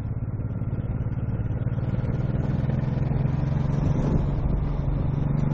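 Motorcycle engine running steadily while riding, slowly getting louder through the second half.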